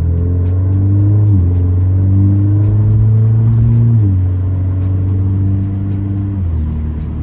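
2017 Alfa Romeo Giulia's four-cylinder engine, with its muffler deleted, accelerating through the gears. Its note climbs steadily, then drops sharply at each upshift: about a second in, about four seconds in, and once more near the end.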